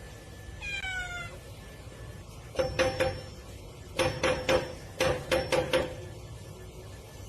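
A cat meows once, falling in pitch, about a second in. Then come three quick runs of sharp knocks with a slight ringing to them, louder than the meow.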